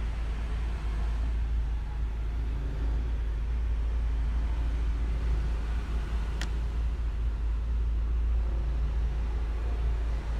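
Bentley Continental GT idling, heard as a steady low rumble inside the cabin, with a single sharp click about six seconds in.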